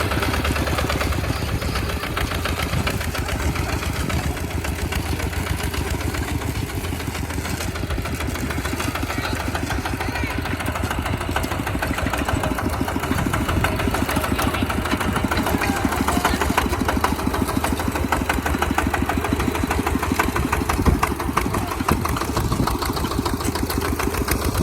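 Tractor engine running steadily, its fast even firing pulses unbroken throughout, as in plowing.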